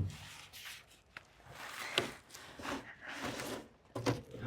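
Faint rustling and scattered light knocks of rubbish being handled, with one sharp click about two seconds in.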